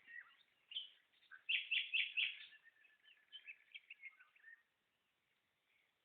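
Songbirds chirping and singing in short, high notes: a run of four loud chirps about a second and a half in, then softer twittering that dies away after about four and a half seconds.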